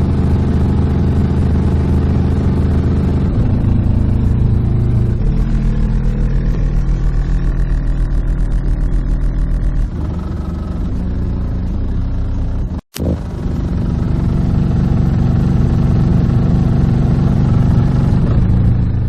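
Extremely loud bass music played through six 12-inch subwoofers in a band-pass box, deep low notes held for a few seconds each before shifting pitch. The sound cuts out completely for a moment about thirteen seconds in, then resumes.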